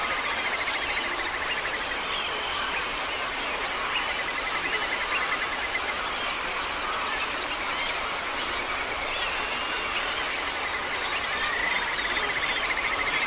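A bird giving a long, fast, even trill at one steady pitch. It runs for the first few seconds, breaks off, and starts again near the end, with faint chirps and steady outdoor hiss behind it.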